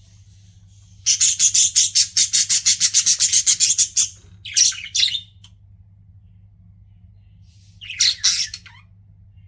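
Pet budgerigars chirping: a rapid string of quick chirps starts about a second in and lasts some three seconds, followed by two short calls, then another brief burst of chirps near the end.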